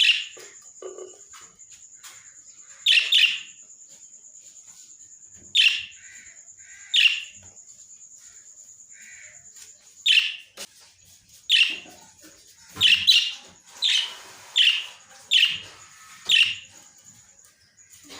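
Small pet parrots calling: about a dozen loud, sharp chirps at uneven intervals, bunching closer together in the second half. A faint steady high-pitched whine runs underneath.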